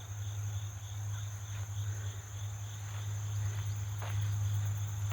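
Outdoor insect chorus, crickets trilling with a continuous high note and a faint pulsing chirp, over a steady low hum.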